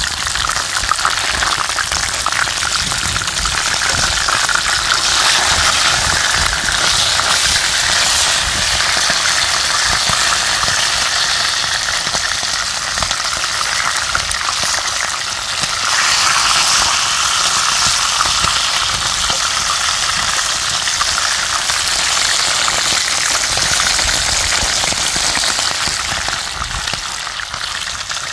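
Meat frying in hot oil in a pan, a steady, loud sizzle.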